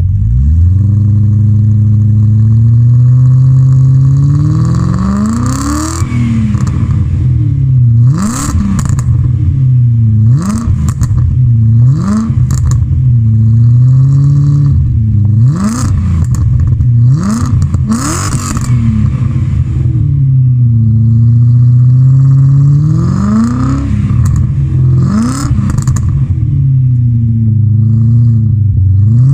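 BMW 740i E38's V8 running through an aftermarket Ulter exhaust, idling and being revved: two slow climbs in revs and a series of quick throttle blips in between, the revs rising and falling sharply each time, with some sharp cracks on the blips.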